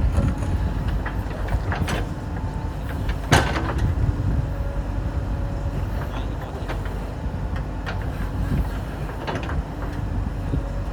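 JCB 3DX backhoe loader's diesel engine running steadily, with scattered knocks and clanks from the machine at work; one sharp knock about three seconds in is the loudest.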